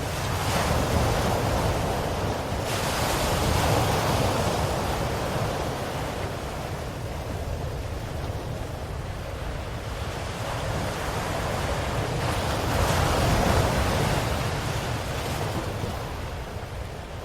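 Ocean waves washing onto a shore, a steady surf noise that swells twice, once near the start and again late on, as waves break and wash in.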